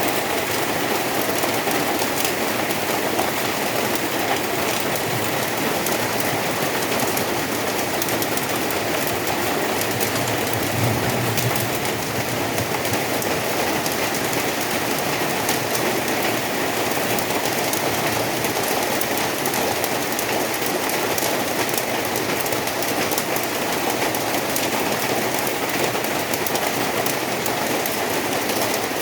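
Steady rain falling, an even rushing patter.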